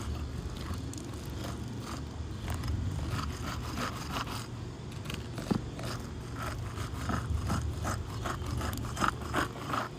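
A roofing snake being worked under asphalt shingles: irregular scraping and crackling strokes as the shingles are pried off their sealant strips, denser in the second half, with one sharp snap about five and a half seconds in. A low steady rumble runs underneath.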